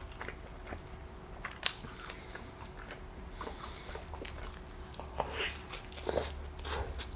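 Close-miked chewing of a cheeseburger: scattered soft wet mouth smacks and clicks.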